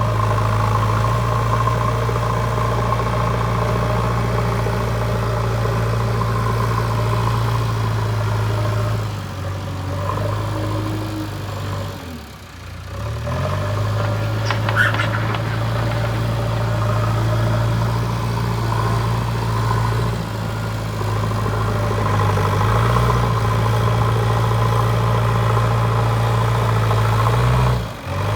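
JCB 3DX backhoe loader's diesel engine running steadily as the machine works. It dips briefly in level about twelve seconds in, with a short high squeak a couple of seconds later.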